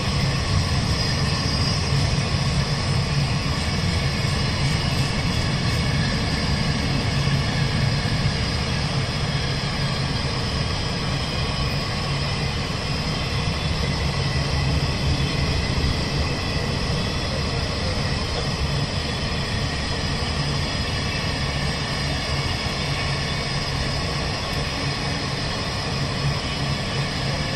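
A long freight train of open-top gondola wagons rolling past at close range: the steady noise of steel wheels running on the rails, even in loudness throughout.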